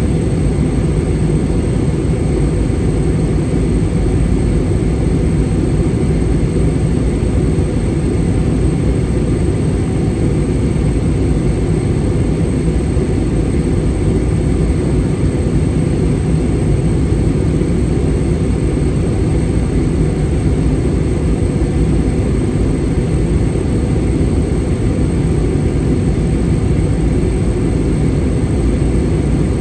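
Airbus A320 cabin noise in flight: a loud, steady low rumble of engine and airflow noise with a faint high whine on top, unchanging throughout.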